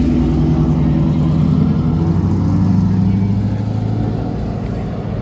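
A loud car engine running steadily at low revs, its exhaust beating evenly. It eases off slightly near the end.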